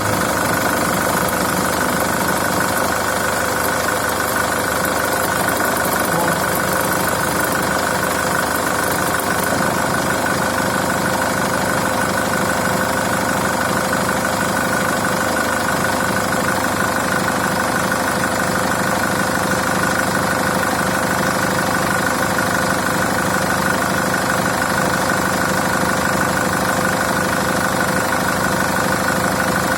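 Chevrolet Captiva 2.2 diesel engine running steadily at idle with a knock.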